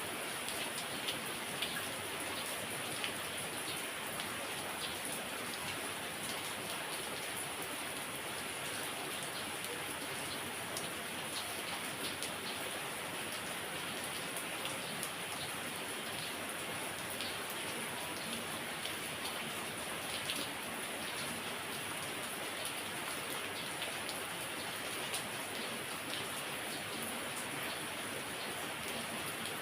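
Heavy rain falling steadily, with individual drops landing close by as scattered sharp ticks.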